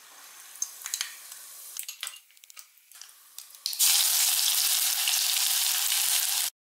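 Mustard seeds crackling faintly in hot oil, then about four seconds in a loud, steady sizzle as ginger-garlic paste is spooned into the oil. The sizzle cuts off suddenly just before the end.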